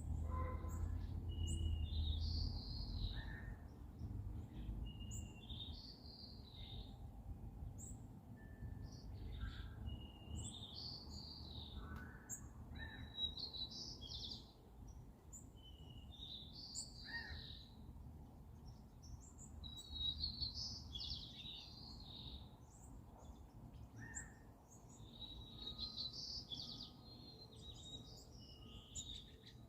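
Wild birds singing: one bird repeats a short rising-and-falling song phrase about every two seconds, with thin high chirps from other birds between, over a steady low rumble.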